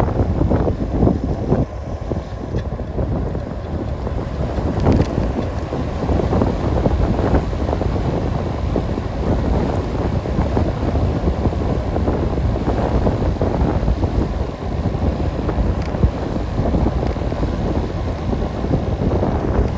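Wind buffeting the microphone of a camera riding on a moving bicycle: a continuous, loud, low, fluttering rumble.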